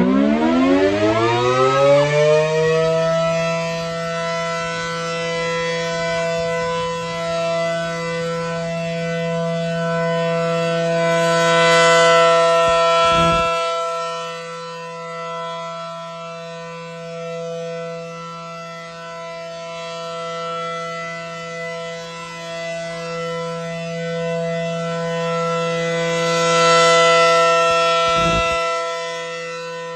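Large rotating outdoor warning siren winding up to full speed in the first few seconds, then holding a steady tone. The sound swells and fades as the siren turns, loudest about every fifteen seconds.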